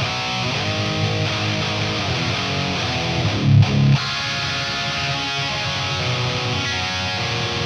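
Electric guitar playing, with a louder low hit about three and a half seconds in.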